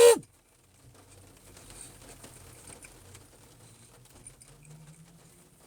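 A loud pitched tone breaks off with a short downward slide right at the start. After it comes a faint, steady patter of rain.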